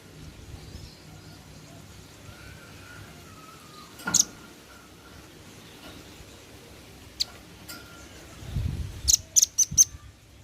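Male velvet-fronted nuthatch calling with short, sharp, high chips: one about four seconds in, another about seven seconds in, then a quick run of four near the end.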